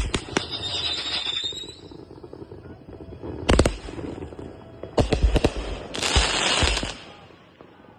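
Backyard consumer fireworks going off: sharp bangs at the start followed by crackling, another cluster of bangs about three and a half seconds in, and more around five seconds. A dense hissing, crackling burst follows around six seconds and dies away about a second later.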